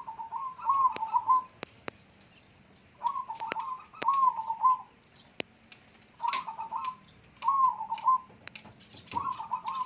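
Zebra dove (perkutut) singing its cooing song: four phrases of short warbling coo notes, each about a second and a half long, repeated roughly every three seconds, with scattered sharp clicks in between.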